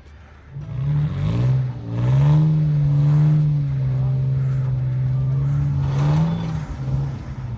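A Toyota off-road truck's engine revving up and held at high revs for several seconds while pushing through deep snow, then letting off near the end.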